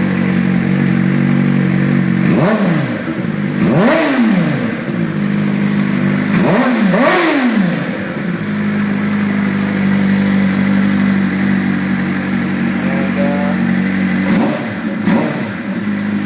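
Suzuki GSX-R 600 inline-four engine breathing through an Arrow GP2 exhaust, idling steadily and blipped several times: two quick revs in the first few seconds, another pair a few seconds later, and a couple of smaller blips near the end, each rising and falling straight back to idle.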